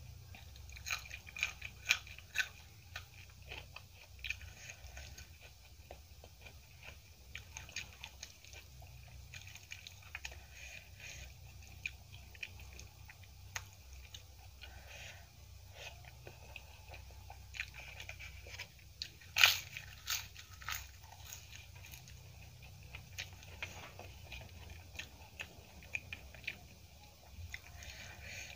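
Close-up eating sounds: wet chewing of rice and potato curry, with many short crisp crunching bites. The loudest crunch comes about two-thirds of the way through.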